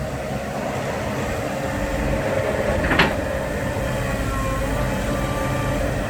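Dump truck's diesel engine running steadily under load as it drives through deep sand, with one sharp clank about three seconds in.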